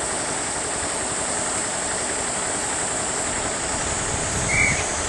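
JR Freight EF210 electric locomotive hauling a container train, approaching from a distance: a steady even rumble under a high hiss, the low rumble growing near the end. A brief high chirp about four and a half seconds in.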